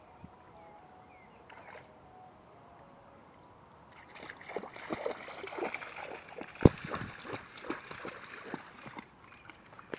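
Dogs wading through floodwater, with irregular splashing and sloshing that starts about four seconds in and one sharp, loud splash near the middle.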